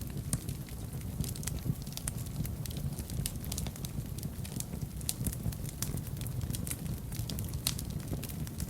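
Fire in a fireplace crackling, with many irregular sharp pops and snaps over a steady low rumble of the flames.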